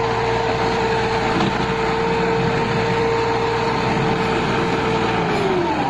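Massey Ferguson MF 260 tractor's diesel engine running hard with a steady whine over the engine noise; near the end the whine drops in pitch as the revs fall.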